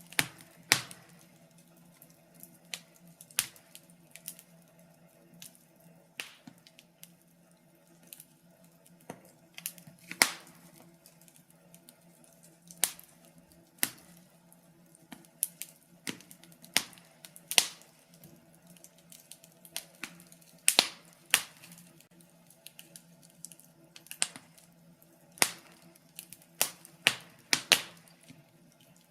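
Wood fire in a fireplace crackling, with irregular sharp pops and snaps of burning logs, sometimes several in quick succession, over a faint steady low hum.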